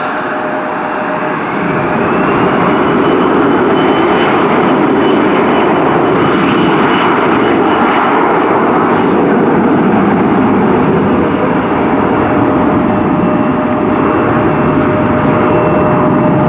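Jet airliner engines running loud: a broad rush with a steady lower tone and a high whine that glides up in the first few seconds, then holds.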